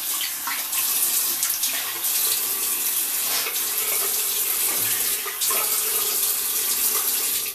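Tap running into a bathroom sink, with uneven splashing as cool water is scooped onto the face to rinse it after a shave.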